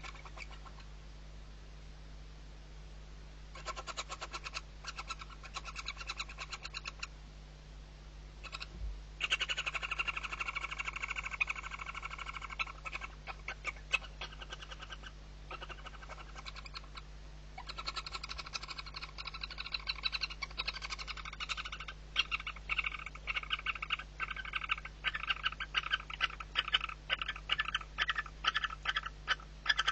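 Barn owl chick calling in stretches of rapid pulsed, chittering sound, a food-begging call given while it is being fed. It starts a few seconds in, pauses briefly twice, and grows denser and more clicky near the end, over a steady low electrical hum.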